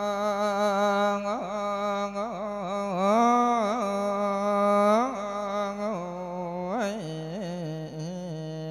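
Solo male voice chanting a Thai thet lae melodic sermon, drawing out long wordless vowel notes with wavering ornaments and pitch glides. The voice is loudest around the middle and steps down to lower held notes in the last few seconds.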